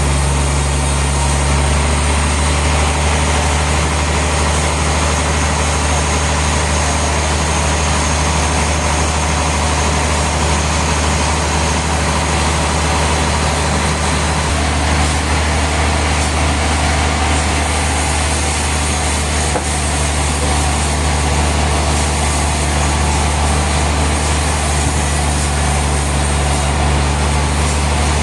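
Sawmill machinery running steadily: a loud, even low hum like a heavy engine, with noise across the range and no pauses or changes.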